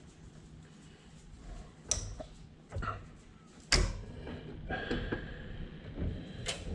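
Sharp metallic clicks and clanks of hand tools working on hose clamps and coolant hose fittings, about four knocks with the loudest near the middle followed by a brief faint ringing.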